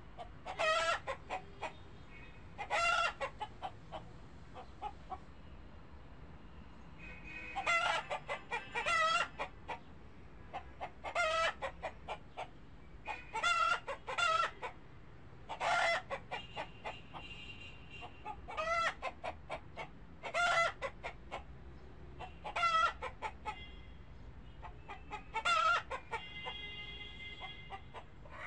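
An animal calling in short, loud bursts of rapid pulsed notes, repeated every two to three seconds.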